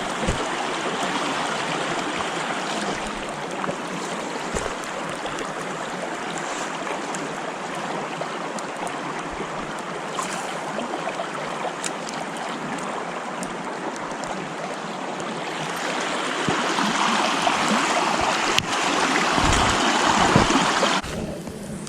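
Steady rush of flowing stream water, swelling louder for the last few seconds before dropping away suddenly.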